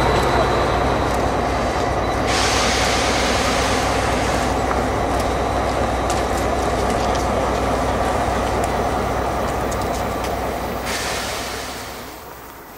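Diesel-hauled passenger train passing: locomotive engines and wheels on the rails in a continuous rumble, fading away near the end.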